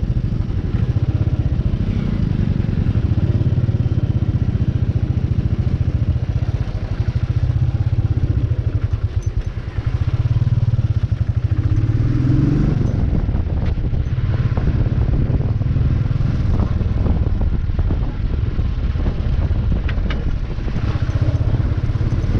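Royal Enfield 350 single-cylinder motorcycle engine running steadily, with a brief rise in revs about twelve seconds in.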